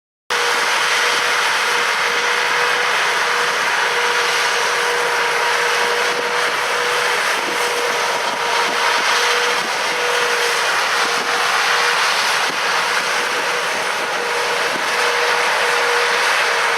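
John Deere tractor pulling an Amadas peanut combine, running steadily in the field: an even mechanical rush of threshing and fans with one steady whine.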